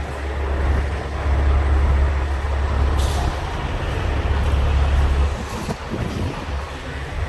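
Truck engine idling steadily with a low hum, and a brief hiss about three seconds in.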